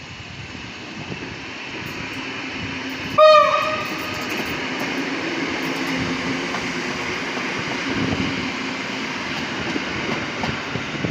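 PKP EN57 electric multiple unit running past, its noise growing louder over the first few seconds and then holding steady, with one short horn blast about three seconds in.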